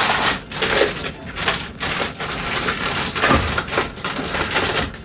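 Snack packaging rustling and crinkling as it is handled and sorted, with small irregular clattering knocks.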